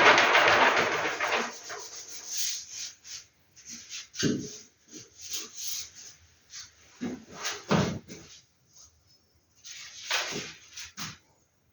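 Paper posters being handled and sorted: a loud sliding rustle for about the first second and a half, then scattered short rustles and soft knocks.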